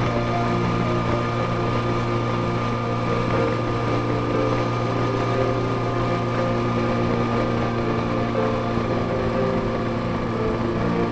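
Honda CB550F's air-cooled inline-four engine running steadily at cruising speed, a constant drone over the noise of the ride.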